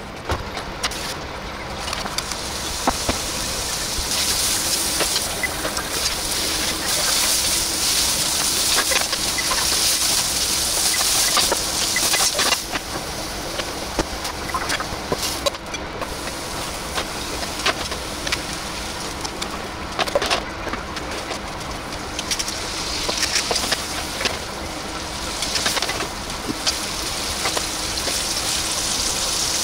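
Food sizzling as it fries in oil in a pan, a fluctuating hiss, with scattered small clicks and knocks of cooking utensils.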